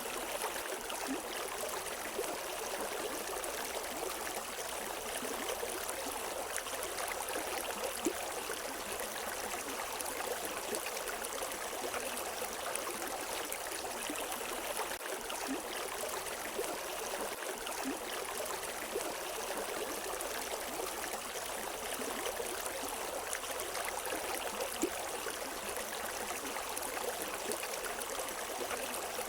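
A river stream flowing steadily over rocks, a continuous rushing and gurgling with a few small brighter splashes.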